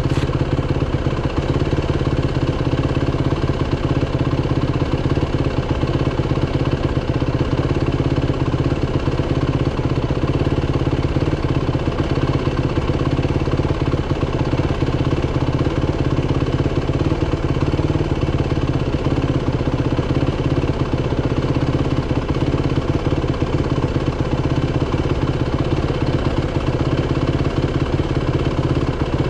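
Dirt bike engine running at a steady, unchanging speed, with no revving up or down.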